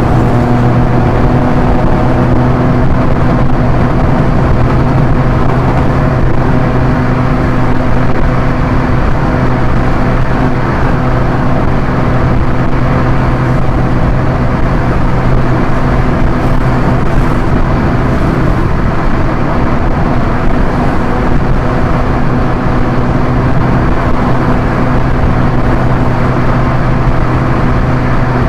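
Proton Inspira's 1.8-litre four-cylinder engine running steadily at a constant cruising speed, a low even hum over road and wind noise. The hum fades a little midway and then comes back.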